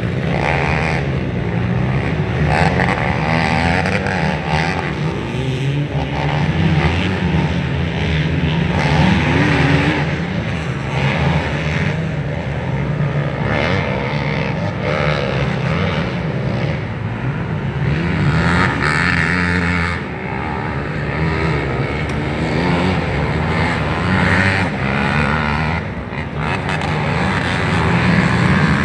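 Motocross dirt bike engines racing on the track, revving up and falling off over and over as the riders work through the course.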